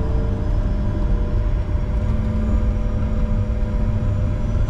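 Cockpit noise of a Bombardier Challenger 605 business jet: a steady low rumble from its turbofan engines, with faint steady tones that drift slightly, just before takeoff thrust is set.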